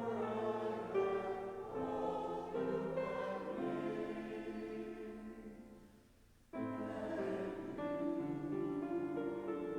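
Church choir singing in held, sustained notes; the singing fades away about five seconds in, falls nearly silent for a moment, and a new phrase begins suddenly about six and a half seconds in.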